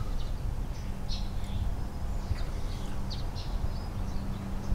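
Small birds chirping now and then, short high chirps, over a steady low electrical-sounding hum, with one sharp click at the very end.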